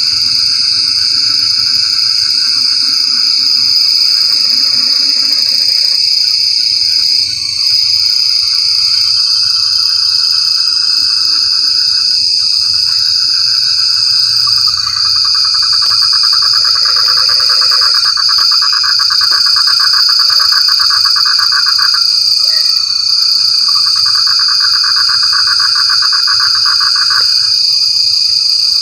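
Frog chorus over a constant high-pitched shrill drone, with rapid pulsing trills that come and go in long bouts through the second half.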